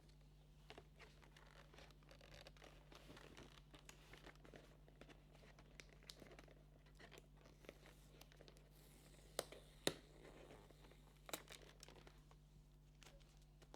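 Faint crinkling and tearing of advent calendar packaging being unwrapped and opened by hand, with a few sharp snaps and clicks about two-thirds of the way through.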